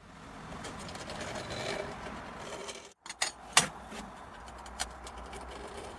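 A drill bit scraping along the edge of a steel knife blank, scribing the centre lines that mark where the blade edge will be. Two stretches of scratching, split by a brief break about halfway through, with a few sharp metal clicks after the break.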